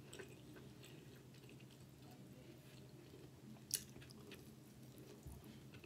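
Quiet chewing, with one short, sharp bite into an oven-baked onion ring a little past the middle.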